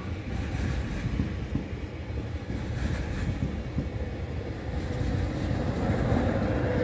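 Double-deck TGV high-speed train passing at speed: a steady rush of wheels on rails and moving air. A faint steady hum comes in near the end as the power car goes by.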